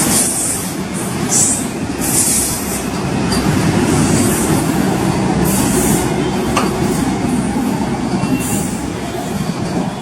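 Train running on the rails close by: a steady loud rumble of wheels and running gear, with repeated short bursts of high hissing.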